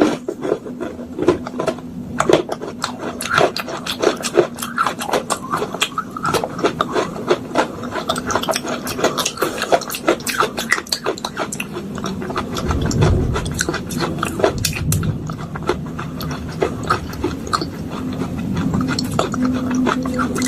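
Pieces of a clay pot (matka) crushed with a metal spoon in a bowl: a dense run of sharp crunches, clicks and scrapes, over a steady low hum.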